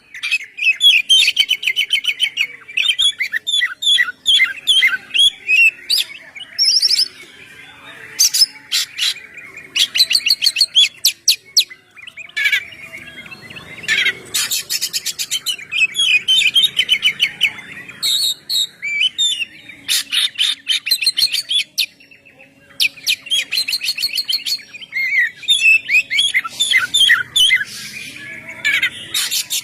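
Oriental magpie-robin (kacer) singing a loud, continuous song of varied whistled phrases, fast trills and rapid repeated notes, with short pauses about 12 and 22 seconds in.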